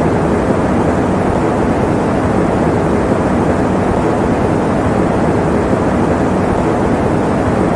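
Electric fan running steadily: a constant, even rushing noise, heavy in the lows with little high hiss.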